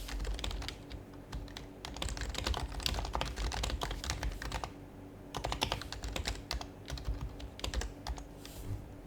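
Typing on an HHKB Professional HYBRID Type-S keyboard, its silenced Topre switches giving quick, soft keystrokes in several bursts separated by short pauses.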